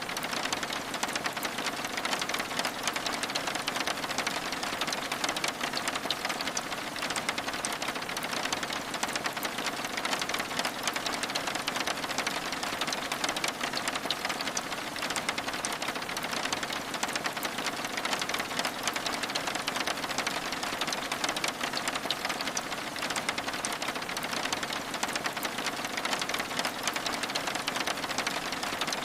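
Steady rain pattering on window glass: an even hiss filled with a dense stream of small drop taps that does not let up.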